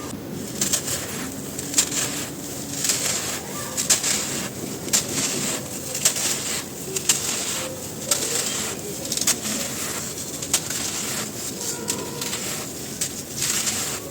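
Dry, dusty cylinders crumbling: a run of crisp crunches and snaps, roughly one a second, over a steady gritty hiss.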